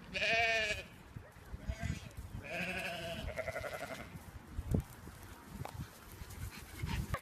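Bleating livestock: a short wavering bleat, then a longer, steadier bleat about two and a half seconds in.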